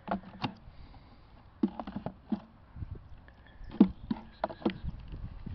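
About ten irregular wooden knocks and clicks, the loudest near four seconds in: beehive frames and hive boxes being handled and bumped together.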